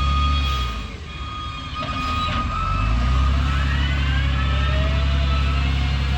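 Heavy diesel engine of a wheel loader running, with a high steady whine over it. The engine note drops away about a second in, then builds again around three seconds in with rising whines as it revs back up under load.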